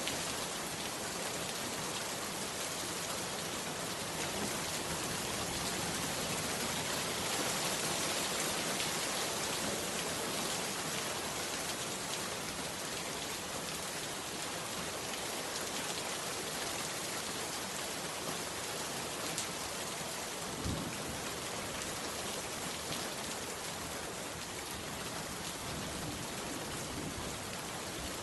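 Heavy rain falling steadily, with a single dull knock about twenty seconds in.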